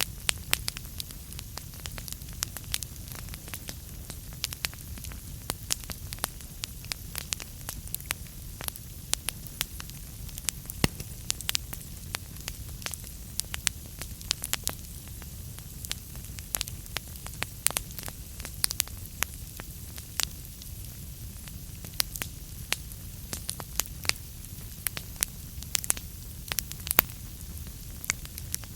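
Wood fire burning in a fireplace, with irregular sharp crackles and pops of burning logs over a low steady rumble of the flames.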